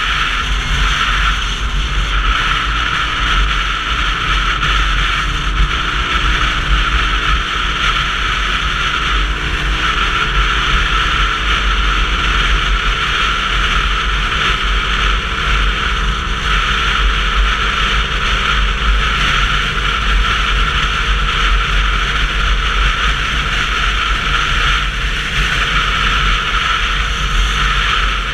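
Steady wind rush and road noise picked up by a camera on a moving Sinnis Terrain 125cc motorcycle.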